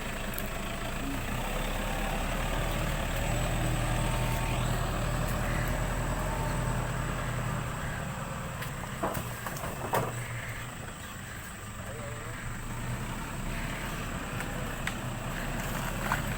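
A motor vehicle's engine running steadily, with a couple of sharp knocks about nine and ten seconds in.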